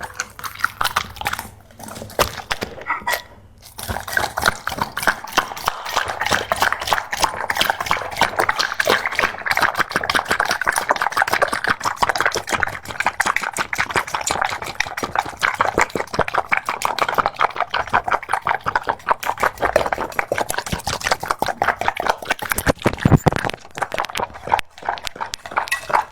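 A Labrador lapping rapidly and wetly with its mouth, a quick unbroken run of small wet clicks that grows fuller about four seconds in.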